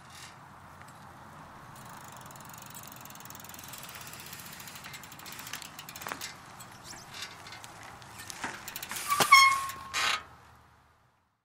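Retro cruiser bicycle rolling up, tyres running steadily with a few clicks and knocks, then braking slowly to a stop. About nine seconds in the brakes give a loud, high squeak, followed by a short rattle as it comes to rest.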